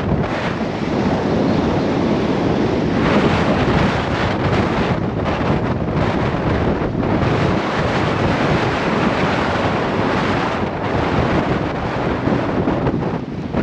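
Gale-force wind buffeting the microphone: a loud, continuous rumble that swells and dips with the gusts.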